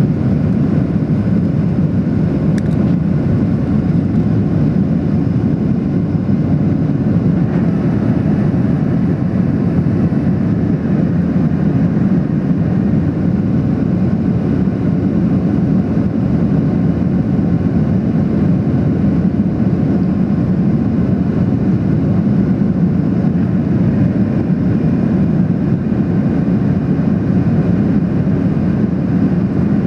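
Steady drone of jet engines and airflow heard from inside the passenger cabin of a Boeing 737-800 in flight, even and unchanging throughout.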